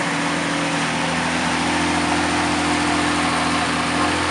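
A car engine idling steadily with an even low hum.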